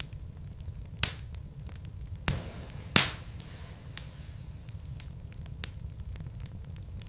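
Wood fire burning in a fireplace: a steady low rumble of the flames with scattered crackles and sharp pops of the burning logs, the loudest pops about a second in, a little after two seconds and at three seconds.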